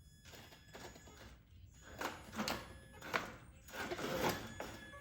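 Traxxas TRX4 RC crawler on box fan blade wheels straining in low range with the diffs locked: a faint electric motor whine comes and goes among irregular scrapes and knocks of the plastic fan blades against the ground.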